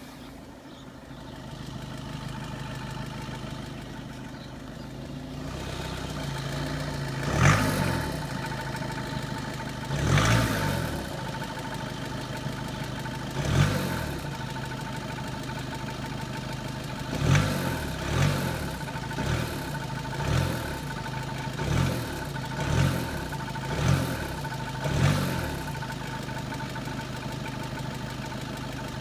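Four-cylinder 2.0 TDI diesel engine of a 2013 SEAT Leon idling, then blipped about eleven times in short revs, the first few some seconds apart and the later ones nearly once a second. The engine has a rattle that the owner says goes away once it is fully warmed up, so this is it running before full warm-up.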